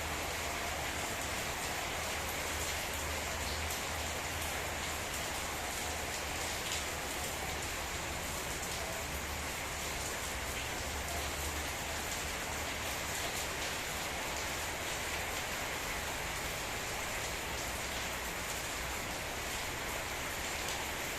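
Steady heavy rain pouring down, with scattered drops ticking on a surface.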